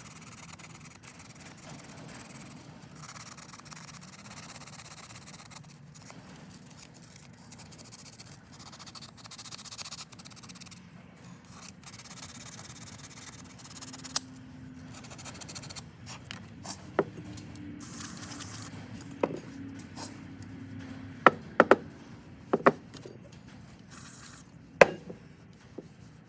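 Fine-grit sandpaper rubbed by hand over a carburetor part in repeated stretches of strokes. Several sharp clicks come in the last few seconds.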